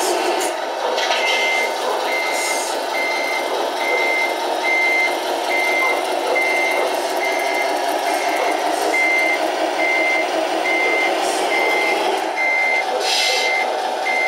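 RC Scania truck model's sound system playing a diesel engine running, with a reversing beeper sounding steady beeps about one and a half times a second from about a second in. A few short hisses come through over it.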